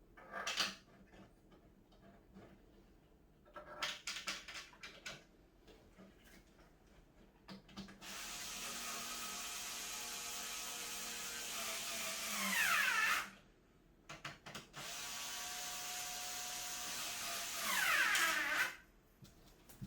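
Electric drill-driver running in two stretches of about five and four seconds, driving screws into cat-tower parts. Each run gets louder toward the end and finishes with a falling whine. A few short knocks of parts being handled come before.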